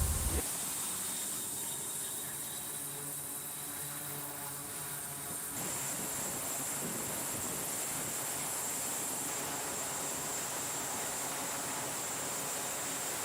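A steady high-pitched hiss like static, which becomes fuller about five and a half seconds in.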